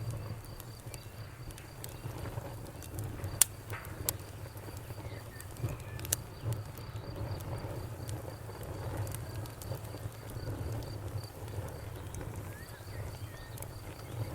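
Wood fire crackling, with scattered sharp pops over a low steady rumble of burning; the loudest pop comes about three and a half seconds in, another about six seconds in.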